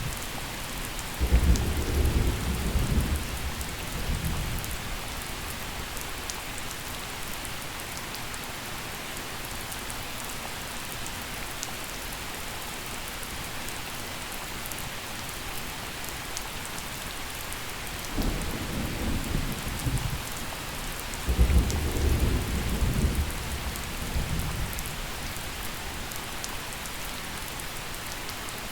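Steady gentle rain falling, with two rolls of thunder rumbling low: one just after the start lasting a few seconds, and a longer, double roll from about two-thirds of the way in.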